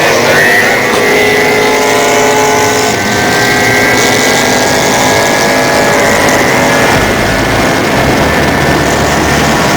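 Drag boat engine running hard at high revs, its pitch holding nearly steady with a slight rise and then breaking up about seven seconds in.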